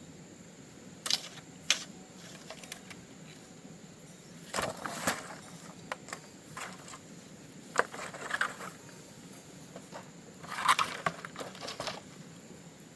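Scattered knocks, clatter and rustling of things being handled and moved about during tidying up, with a few sharper clacks and longer rustles near the middle and two-thirds of the way through.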